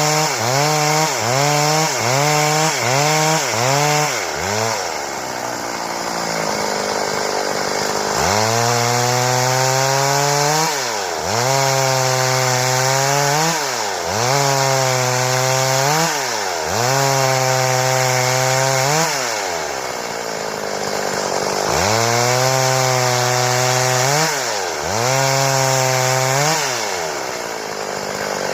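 Stihl chainsaw running at high revs and cutting wood. Its engine pitch sags and recovers again and again as the chain bites, and twice it drops back to idle before being throttled up into the cut again.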